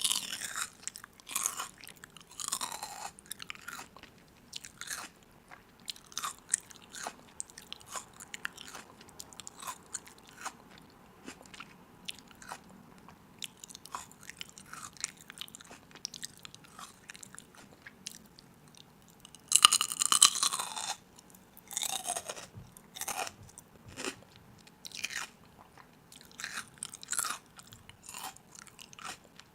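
Crunchy food being bitten and chewed: irregular crisp crunches, with a longer, louder crunch about twenty seconds in.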